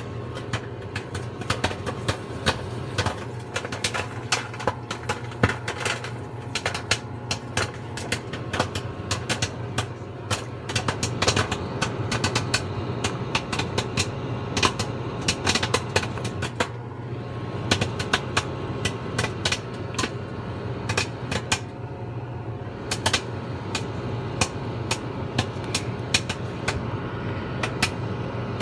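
Microwave popcorn popping inside a running GE Spacemaker microwave: a rapid, irregular run of sharp pops over the oven's steady low hum.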